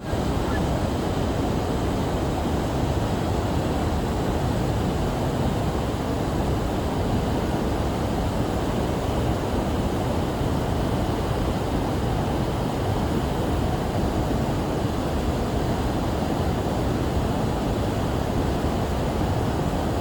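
Steady rushing roar of a waterfall, a constant deep wash of falling water.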